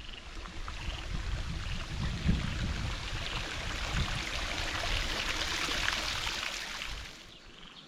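Running water from a stream flowing, a steady rush that dies down about seven seconds in.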